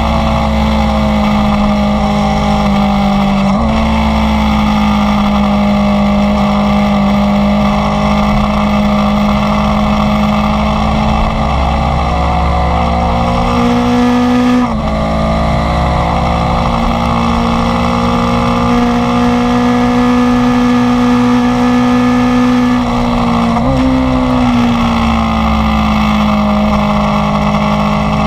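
Inline-four motorcycle engine running steadily under way, loud and close, over low wind rumble. Its pitch shifts abruptly three times, about an eighth, half and five-sixths of the way through.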